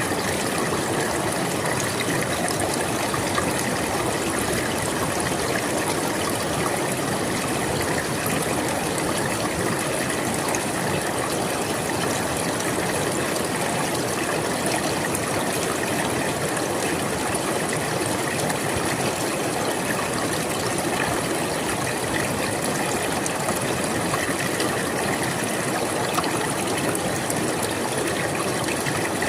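River water flowing steadily over stones, with a continuous rushing and trickling that does not change.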